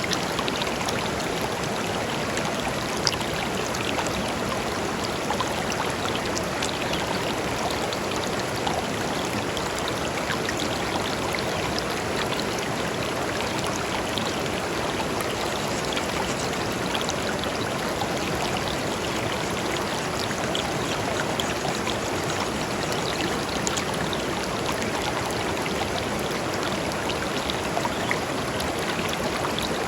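Shallow river flowing over and between stones: a steady rushing and babbling with small splashes and trickles.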